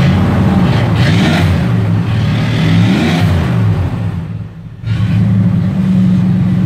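1990 Dodge D150's 318 throttle-body V8 revved up and back down twice, then settling to a steady idle. The owner believes it has a hot cam.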